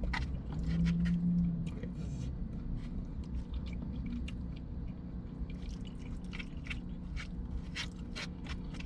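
A man chewing a mouthful of turkey chili, with many small wet mouth clicks. A short hummed tone about a second in sits over a steady low background rumble.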